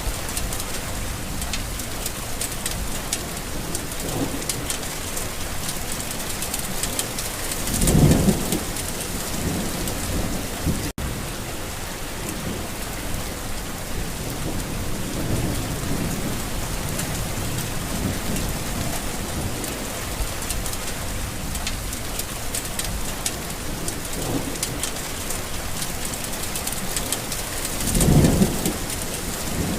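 Steady rain falling, with a roll of thunder about eight seconds in and another near the end. The sound drops out for an instant about eleven seconds in.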